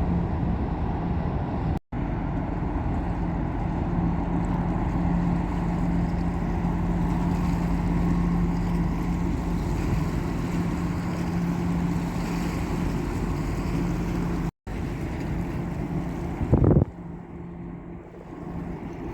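Steady low drone of a passing ship's engines with a held hum, broken by two split-second dropouts. Near the end a brief loud thump sounds, and the engine drone then falls away to wind and water noise.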